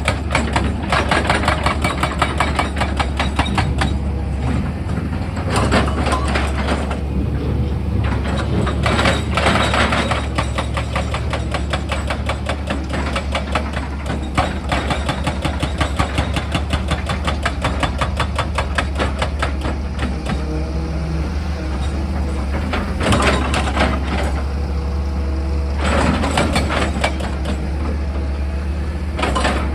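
Heavy machine's diesel engine running steadily under a rapid, even hammering of a hydraulic rock drill working into stone, with a few louder spells of impact.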